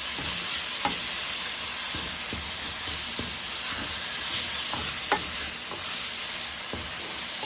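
Onion, chopped tomato and spices frying in oil in a frying pan with a steady sizzle while being stirred, with a few light clicks of the utensil against the pan and one sharper knock about five seconds in.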